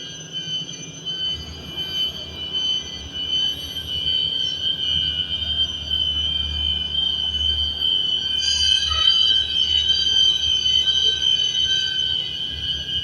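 Steady high-pitched chorus of insects: several constant shrill tones at once, with another caller joining about eight and a half seconds in.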